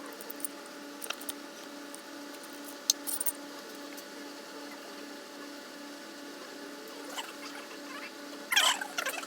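Scattered light clicks and taps of metal engine parts and tools being handled, over a steady background hum. There is one sharp click about three seconds in and a louder run of rattling clicks near the end.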